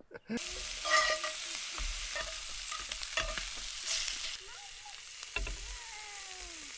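Leftover steak and pork chop sizzling in a pan over a campfire. The sizzle starts about half a second in and eases off about four seconds in. There is a short metallic clink about a second in.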